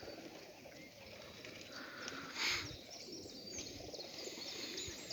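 Quiet outdoor ambience with faint, short bird chirps and one brief rustle about two and a half seconds in.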